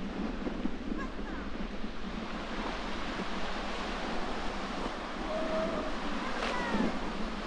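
Sea waves breaking and washing ashore with strong wind, a steady rushing noise, wind also buffeting the microphone.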